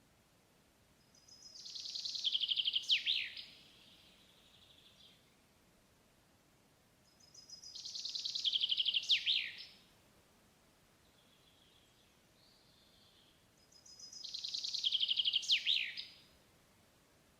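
A songbird singing the same song three times, about six seconds apart; each song is a fast run of high notes ending in a quick downward flourish. Fainter calls sound between the songs.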